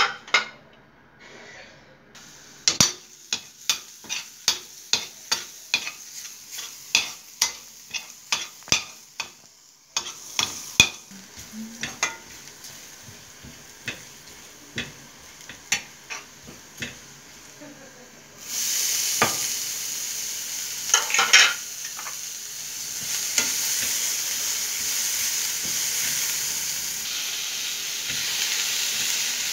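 Minced garlic frying in oil in a stainless steel pan, with a metal spoon clinking and scraping against the pan about twice a second as it is stirred. About two-thirds of the way through, the sizzle suddenly grows louder and stays steady as chopped red onion goes into the hot oil.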